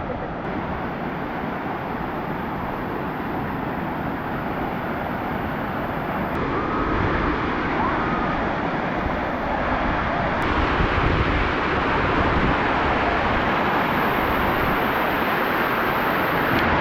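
Steady rush of water cascading down Dunn's River Falls, a continuous noise without pitch or rhythm that grows slightly louder past the middle, with faint voices under it.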